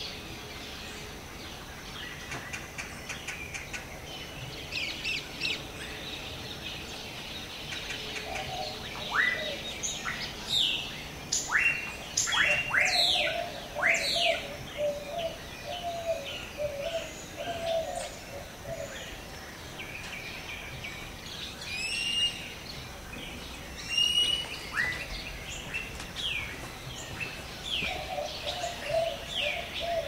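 Rainforest birds calling over a steady background hiss. A burst of sharp, downward-swooping whistled calls comes about a third of the way in, and two paired chirps follow near three quarters of the way through. A lower warbling call comes and goes.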